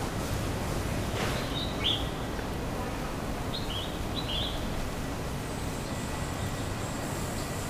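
A bird's short chirps, a couple about a second and a half in and a few more around four seconds in, over a steady low rumble.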